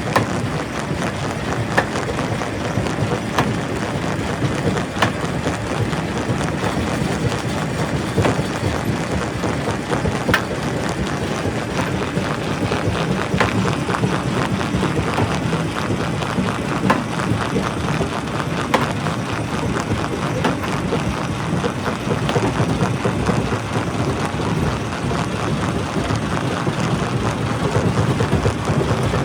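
Primary rock crusher at work: a steady heavy machine din with frequent sharp clacks and knocks of rock being broken and tumbling.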